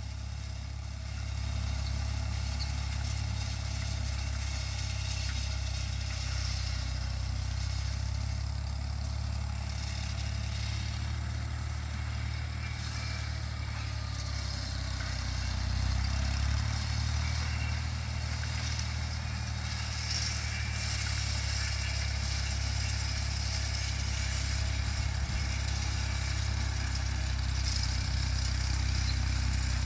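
Tractor engine running steadily with a New Holland 276 Hayliner square baler working behind it, a constant low rumble.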